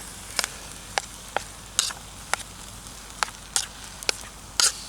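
Wood campfire crackling: irregular sharp pops, roughly two a second, over a steady hiss.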